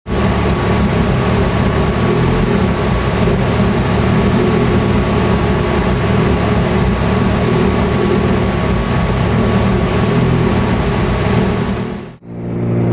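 Car engine running loud and steady at an even speed, with a thin steady whine above it. It fades out near the end.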